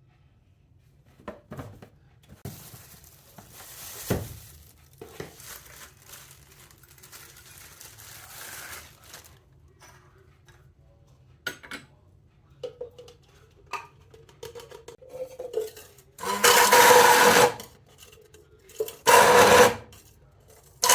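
Kitchen utensils and dishes clinking and scraping, then a small electric kitchen appliance motor switched on in short bursts, three times near the end.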